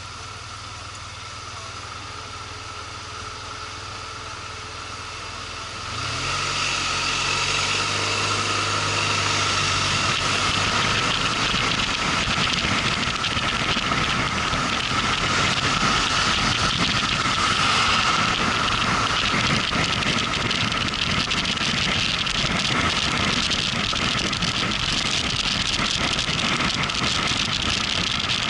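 Motorcycle engine idling, then about six seconds in it speeds up and rises in pitch as the bike pulls away. It rides on with steady engine and wind noise.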